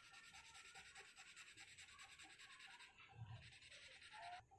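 Faint, rhythmic scribbling of a crayon colouring on paper.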